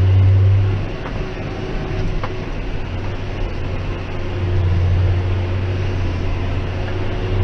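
John Deere 6190R tractor's six-cylinder diesel heard from the cab, running with a steady low drone that eases about a second in and swells again past the middle. Its particulate filter is regenerating, which raises tick-over to about 1,000 rpm and makes quite a strange sort of noise.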